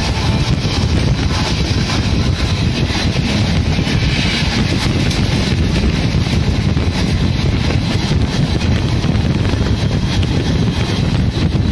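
Two passenger trains running side by side at speed, heard from an open coach doorway: a steady rumble of wheels on rail with wind buffeting the microphone.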